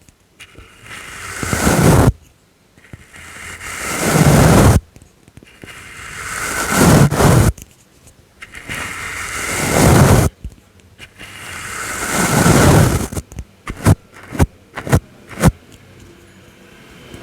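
Soft brush strokes: five long sweeps, each swelling louder over about two seconds and then stopping suddenly. Near the end come about six quick, short flicks.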